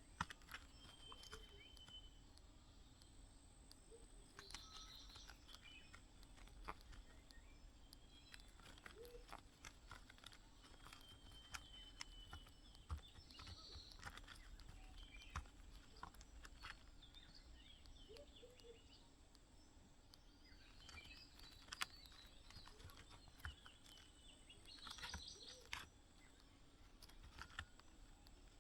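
Near silence broken by faint, high bird chirps a few times, with scattered soft clicks and scratches.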